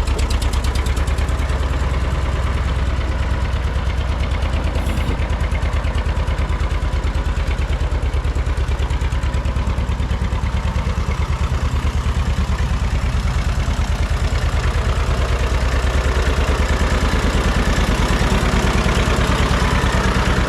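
John Deere 630's two-cylinder engine running steadily with an even, pulsing beat.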